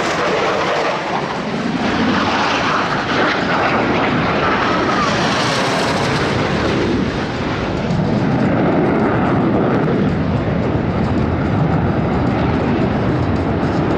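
Steady, loud jet roar from Blue Angels F/A-18 Super Hornets flying by, with a faint gliding whine a few seconds in as a jet passes.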